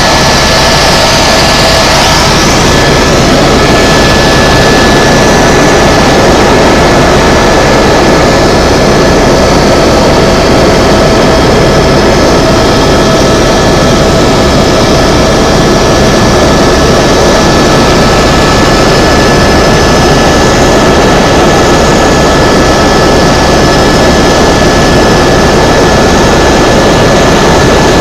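Helicopter in flight: the engine and rotor make a loud, steady drone, with a few steady high whining tones over it.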